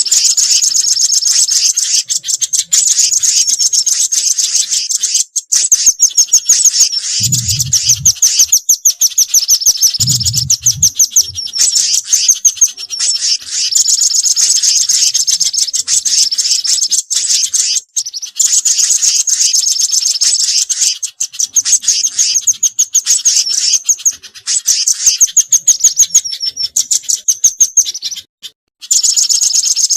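Bird-lure recording of small garden birds calling in rapid, high, chirping trills that run almost without a break: mixed calls of velvet-fronted nuthatch (rambatan), spiderhunter (pijantung) and other birds, played to attract birds. Two short low sounds come in about seven and ten seconds in, and the calls cut out briefly twice near the end.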